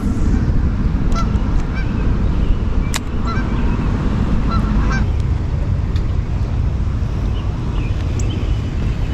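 Short bird calls, several in the first half, over a steady low wind rumble on the microphone.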